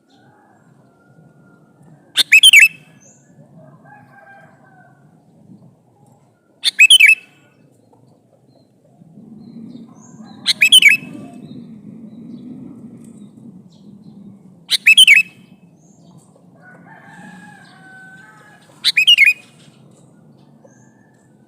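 Male sooty-headed bulbul (kutilang) giving a short, loud call five times, about every four seconds. The calls sound over a faint low rumble.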